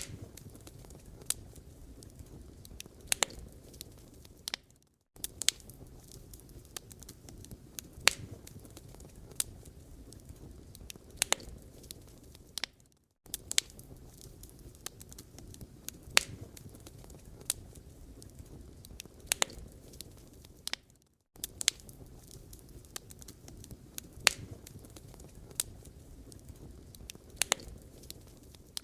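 Wood fire burning in a fireplace: a steady low rumble with sharp, irregular crackles and pops, a few of them louder. The sound cuts out briefly about every eight seconds.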